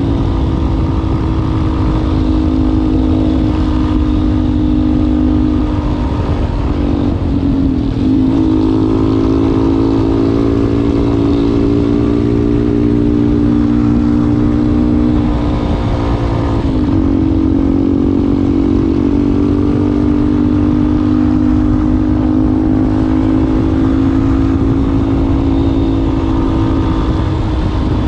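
Yamaha Ténéré 250 single-cylinder four-stroke engine running through a WACS aftermarket slip-on exhaust, held at steady revs. The revs dip briefly and recover about 8 s in, again about 17 s in, and once more near the end.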